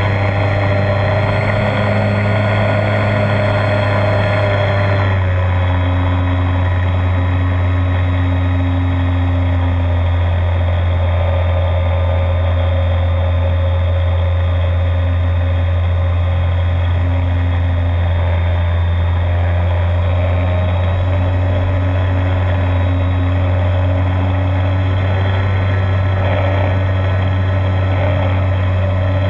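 RC model DHC-2 Beaver's electric motor and propeller running steadily, heard from inside the fuselage, with a shift in pitch about five seconds in.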